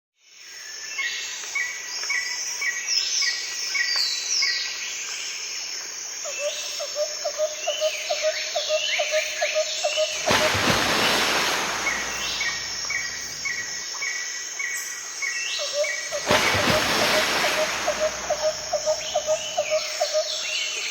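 Forest birds chirping and whistling, with a fast run of low pulsed notes about four a second that comes twice. Two stretches of rushing noise rise over them about halfway through and again near the end.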